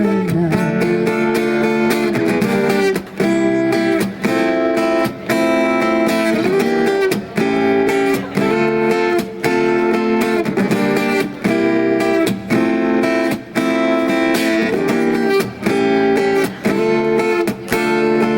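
Acoustic guitar strummed in a steady rhythm: a solo instrumental passage of ringing chords with no singing.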